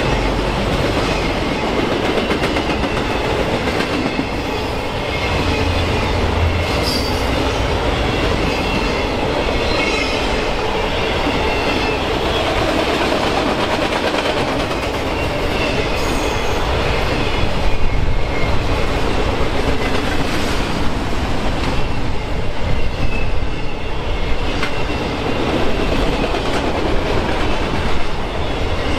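Train cars rolling past close by, a steady rumble and rattle of wheels on rail with faint high-pitched wheel squeals. It gets louder and more uneven about two-thirds of the way through.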